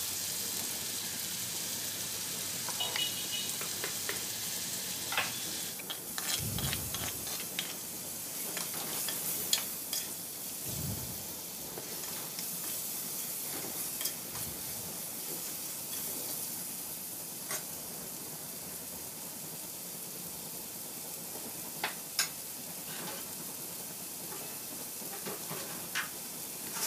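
Sliced onions, tomato and curry leaves frying in oil in a clay pot, with a steady sizzle. A spoon stirs and tosses them, giving scattered sharp clicks and scrapes against the pot.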